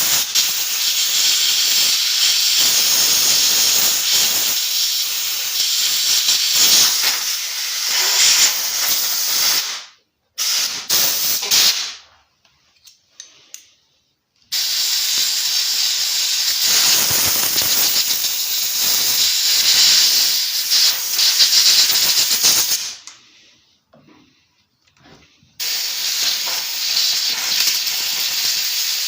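Compressed-air blow gun hissing as it blasts dirt out of a disassembled petrol chainsaw. There are three long blasts, the first about ten seconds, with a few short spurts and brief pauses between them.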